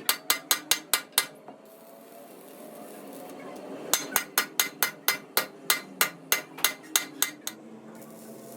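Hammer striking metal in quick, even blows: a run of about six strikes, then after a pause of about three seconds a longer run of about fifteen, each with a short bright ring.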